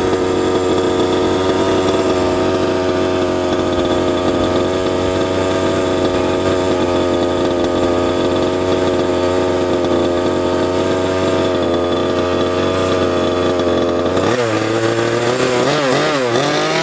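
Small two-stroke gas engine of a 1/5-scale RC truck running at a steady idle, then revved up and down several times near the end with quick throttle blips.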